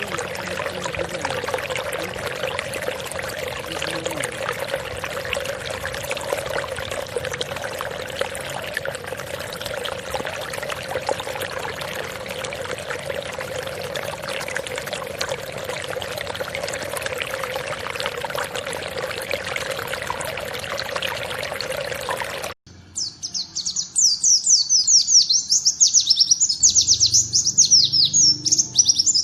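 Running water pouring steadily, which cuts off suddenly about three-quarters of the way through. A songbird then starts a loud, rapid string of high chirping notes.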